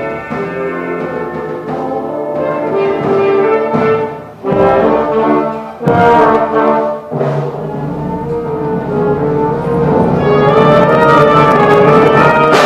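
Youth wind band playing, brass to the fore, with sharply accented chords about halfway through and the full band building louder near the end.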